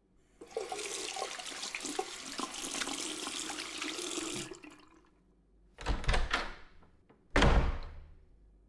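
A tap running into a bathroom sink for about four seconds, then turned off, followed by two dull thumps about a second and a half apart.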